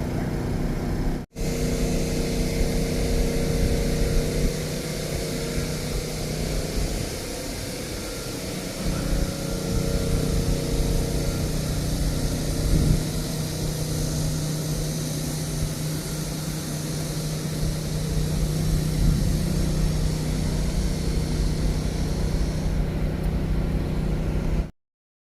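Steady outdoor city ambience dominated by a constant low engine hum, as of traffic, over a broad hiss. It drops out briefly about a second in and cuts off near the end.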